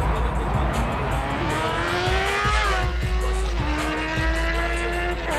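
A car engine revving: its pitch climbs, drops about three seconds in, then climbs again and drops near the end, like an accelerating car shifting up. Bass-heavy music plays underneath.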